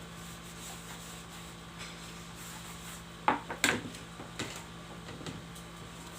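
A few short rubbing scrapes, two sharp ones together a little over three seconds in and fainter ones after, as a plastic bottle is handled during gluing, over a steady low hum.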